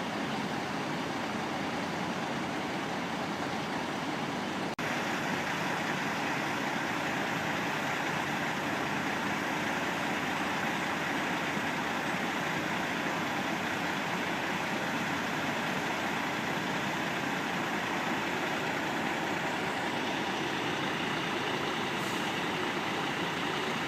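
Steady running noise of idling semi-truck diesel engines, with a brief drop about five seconds in, after which it is slightly louder.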